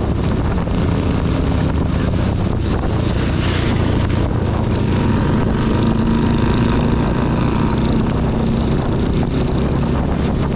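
A Honda CB250 motorcycle engine running steadily under way, with rain and wind noise on the camera microphone.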